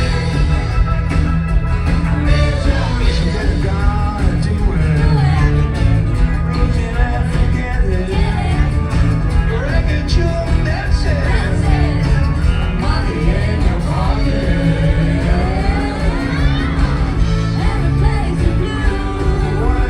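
A rock band playing live, with singing over drums, bass and guitar.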